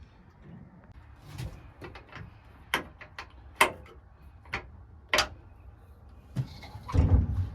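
A series of separate sharp clicks and knocks at irregular intervals, with a heavier, deeper thump near the end.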